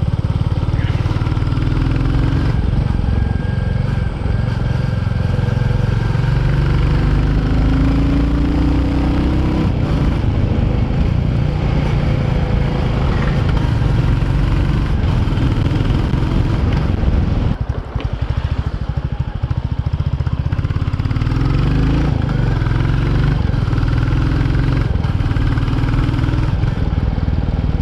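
Royal Enfield Classic 350's single-cylinder engine running while the motorcycle is ridden, its note rising and falling with the throttle. A little past halfway it drops off briefly, then pulls again.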